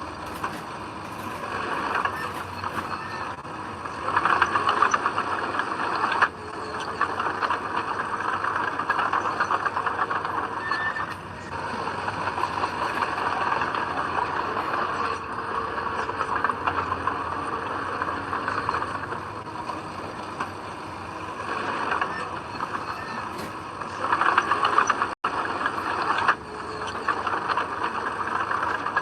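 Komatsu D20P bulldozer working, its diesel engine running under changing load and clattering steadily. It grows louder about four seconds in and again near the end, and drops out for an instant just after.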